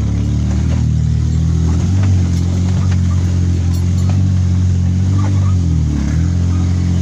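Ford F-150 pickup's six-cylinder engine running as the truck is driven off-road. Its pitch rises about two seconds in, then dips briefly near the end before picking up again.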